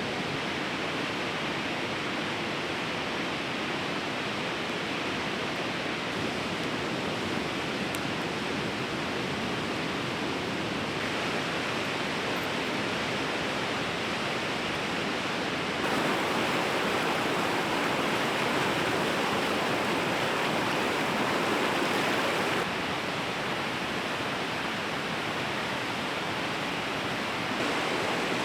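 A raging river rushing: a steady roar of fast-moving water that grows louder about 16 seconds in and drops back about 23 seconds in.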